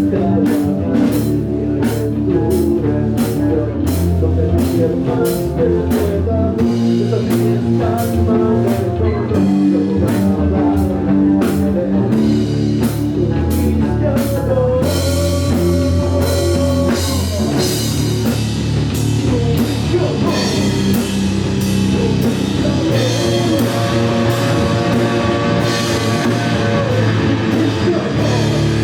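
Metal band playing live: distorted electric guitars, bass and drum kit in a passage without singing. Steady drum and cymbal hits drive the first half, and long held, bending notes ride over the top from about halfway.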